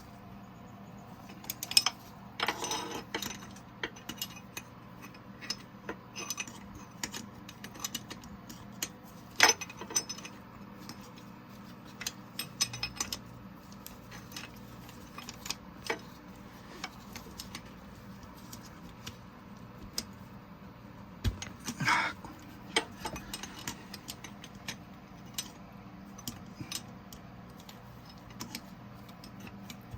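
Metal hand tools clinking and rattling, with scattered sharp metallic knocks, as a Caterpillar 3406E's injector is worked loose. The clatter is loudest near the start, around a third of the way in and about two-thirds through, over a faint steady hum.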